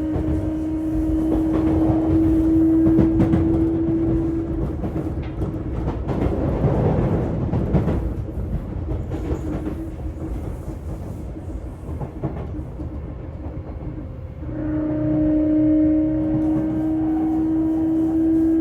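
Onboard running sound of a Sotetsu 8000 series electric train, recorded in a motor car: a steady electric traction hum over wheel-and-rail rumble with rail clicks. The hum drops out about four seconds in and comes back, louder and with a second higher tone, near the end, as traction power is cut and reapplied.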